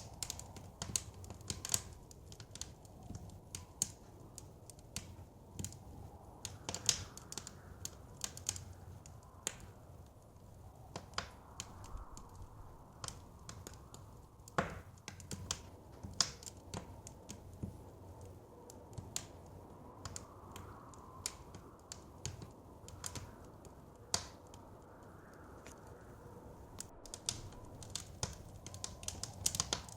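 Wood fire in a fireplace crackling, with irregular sharp pops and snaps, over a soft low rush of blizzard wind that swells now and then.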